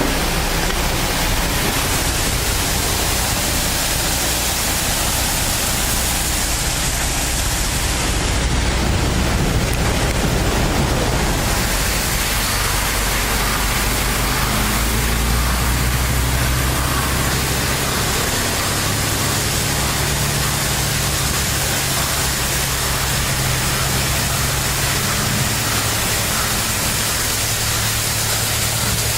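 Pressure washer spraying water in a steady hiss, with a low engine hum running underneath that shifts in pitch about halfway through.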